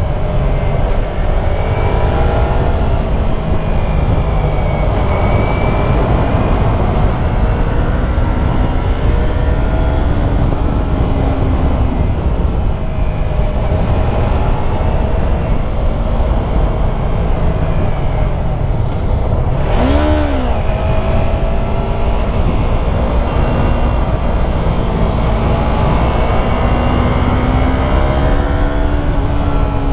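Yamaha YZF-R3's parallel-twin engine under way, over a heavy wind rumble, its pitch rising and falling every few seconds as the bike speeds up and slows through bends. About twenty seconds in there is one brief sharp swoop up and back down in pitch.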